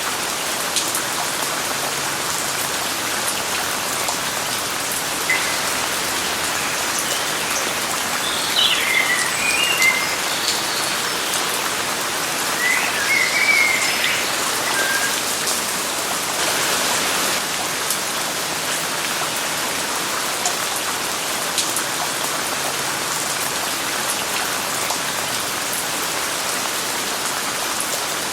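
Steady rain falling, a dense even hiss with scattered drop ticks. A bird chirps in two short bursts, about a third of the way in and again near the middle.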